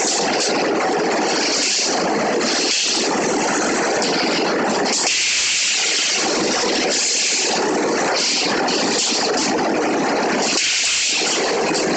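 Steady hissing, crackling noise of a round pile cage welding machine at work. Every second or so it shifts between a higher hiss and a lower rush.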